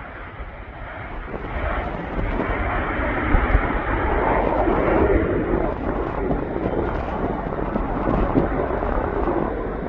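Airplane flying past, its engine noise building over the first couple of seconds and then staying loud.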